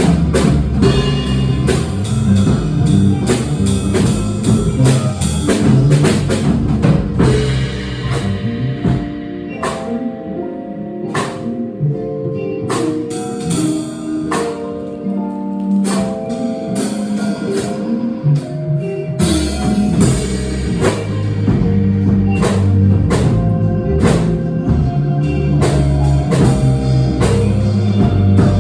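Small jazz band playing, with drum kit and bass. About nine seconds in the bass and drums drop back to a lighter passage of single melodic notes, and the full band comes back in about ten seconds later.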